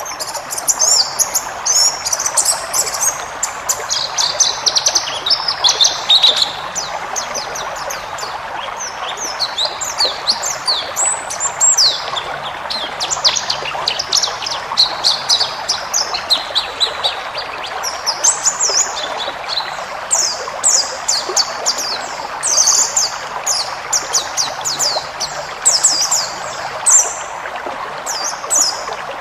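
White-eye (pleci) singing a long, varied song of rapid, high twittering chirps and quick falling notes, with hardly a pause. A steady rushing noise runs underneath.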